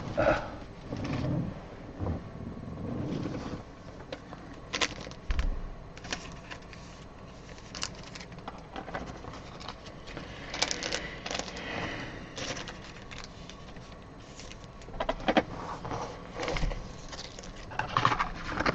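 Trading cards and plastic card sleeves being handled and gathered up, with rustling and many scattered light clicks and taps that come thicker in two spells in the latter half.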